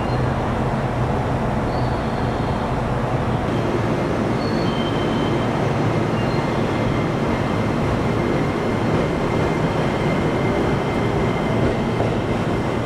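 Train running along the track: a steady rumble of wheels on rails that holds level throughout.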